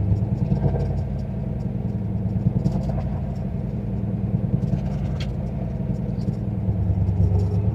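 Turbocharged 351 Windsor V8 of a Fox-body Mustang running at a steady cruise, its exhaust giving a deep, even pulsing note.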